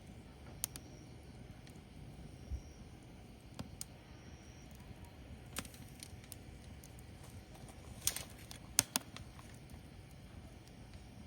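Firewood burning, with irregular sharp crackles and pops over a low, steady rumble of the fire. The loudest pops come in a quick cluster about eight to nine seconds in.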